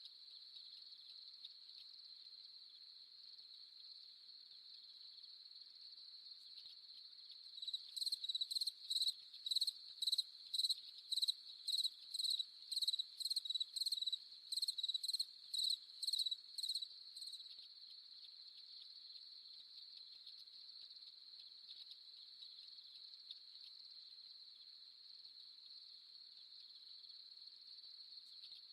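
Crickets trilling steadily in a high, even chorus. About eight seconds in, one louder cricket chirps in a regular pulse of about two chirps a second for some nine seconds, then stops.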